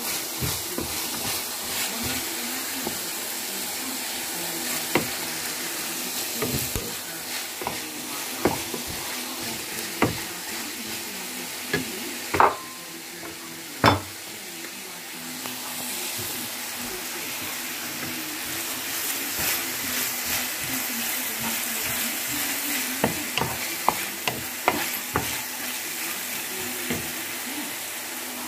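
Chicken and carrot strips sizzling as they fry in oil in a frying pan, stirred with a wooden spatula that knocks and scrapes against the pan many times. The sizzle dips for about two seconds near the middle, between the two loudest knocks.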